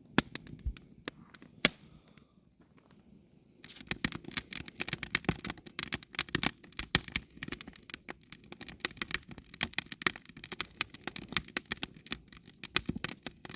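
Campfire crackling and popping, with a few scattered pops at first and then, a few seconds in, a dense run of sharp, irregular cracks.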